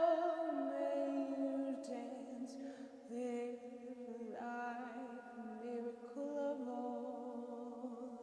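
Wordless vocal toning: long held sung notes that glide slowly from pitch to pitch, in two layered voice lines, one lower and one higher. Brief breaks come around the third and fourth seconds.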